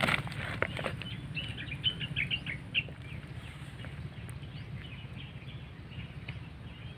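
Small birds chirping in quick, short notes, over a steady low rumble, with a few knocks in the first second.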